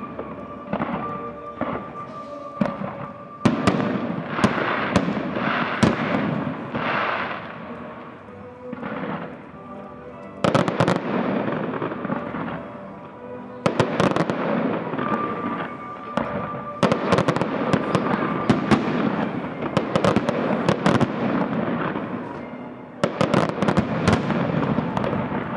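Fireworks display: aerial shells bursting in rapid volleys of sharp bangs and crackle. There is a lull about eight to ten seconds in, and fresh volleys start around ten and a half, fourteen, seventeen and twenty-three seconds in.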